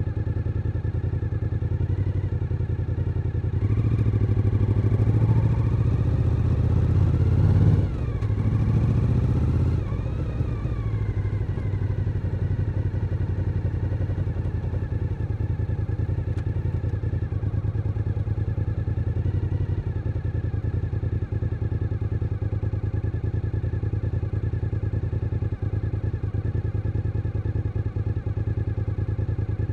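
Suzuki SV1000N's 90-degree V-twin engine: it opens up about three and a half seconds in with pitch rising, eases off sharply near eight seconds, then runs at a steady, even note.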